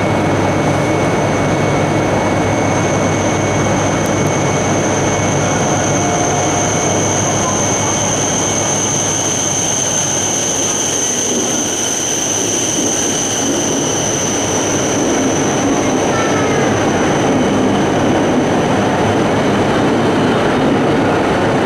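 E5 series Shinkansen train pulling slowly into the platform: a steady rumble of running noise with a high-pitched whine held over it, fading somewhat after about fifteen seconds.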